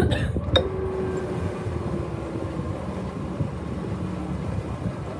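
Boat engine running steadily as the boat gets under way, a low rumble with a faint hum above it, and a single sharp knock just over half a second in.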